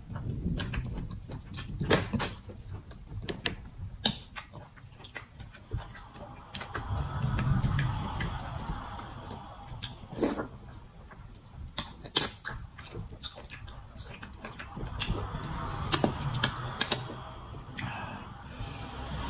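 Close-up eating sounds as starch fufu and soup are eaten by hand: wet chewing and lip smacking, with many sharp mouth clicks.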